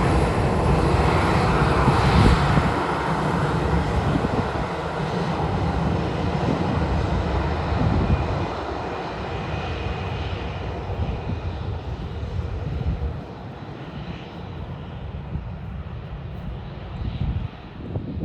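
Boeing 737-800's CFM56 jet engines running at taxi power, a steady jet noise with a thin high whine that slowly fades as the aircraft moves away. Strong wind buffets the microphone with an uneven low rumble.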